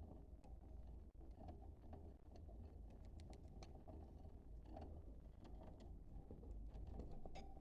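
Budgerigars chirping faintly: scattered short chirps and clicks over a steady low hum, the kind of budgie chatter played to stimulate breeding.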